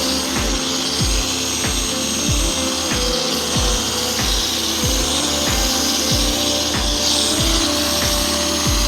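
Background music with a steady deep beat over a machine polisher running a microfiber cutting pad with cutting compound on a plastic headlight lens, a steady whirring motor.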